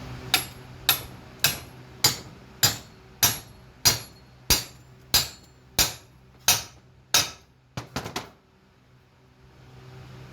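Hand hammer striking metal: a steady run of about a dozen blows, roughly two every second, each with a short metallic ring, then three quick light taps and it stops.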